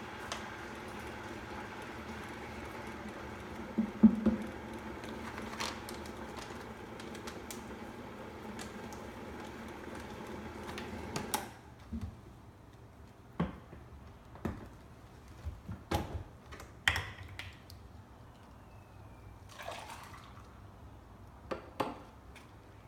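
A steady motor hum that cuts off suddenly about eleven seconds in, then scattered clinks and taps of a spoon against a glass as a teaspoon of powder is measured out and stirred into the juice.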